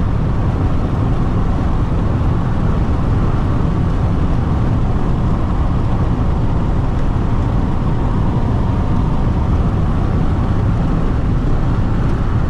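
Steady, loud rumble of wind and road noise inside a Jeep Renegade diesel cruising fast on the highway with its windows open.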